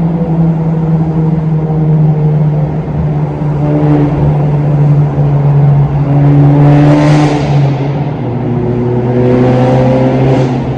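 Honda Civic Type R FK8's 2.0-litre turbocharged four-cylinder droning through a Tomei Type D cat-back exhaust and catless downpipe, heard from inside the cabin. The engine note is steady, swells louder and brighter about six to seven seconds in, then drops lower in pitch around eight seconds.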